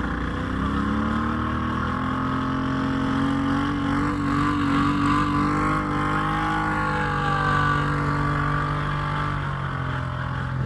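Motor vehicle engine running under load, its pitch rising about half a second in, holding for several seconds, then easing back down in the second half.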